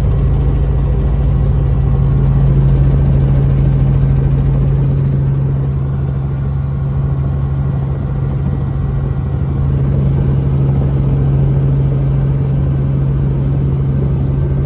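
Helicopter in flight: a loud, steady drone of engine and rotors with a constant low hum.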